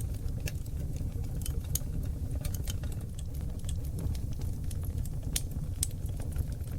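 Seasoned oak log fire burning in a fireplace: a steady low rumble of flames with frequent sharp crackles and a few louder pops.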